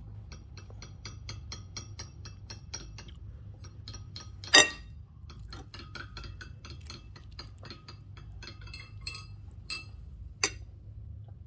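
Light, even ticking, about four ticks a second, that gives way to scattered small clicks and clinks. A sharp louder click comes about four and a half seconds in, and another near the end, over a steady low hum.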